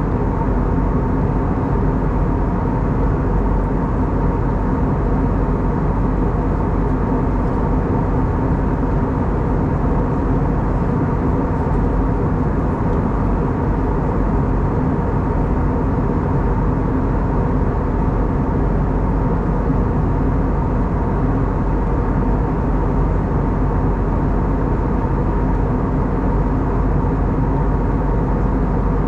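Steady in-flight cabin noise of an Airbus A320neo: the rush of air past the fuselage and the hum of its CFM LEAP-1A engines, with a few constant tones, unchanging throughout.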